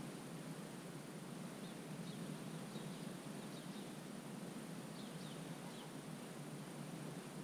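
Steady lakeside wetland ambience, an even background hiss, with faint, short, high bird chirps scattered through it, several in quick pairs in the middle.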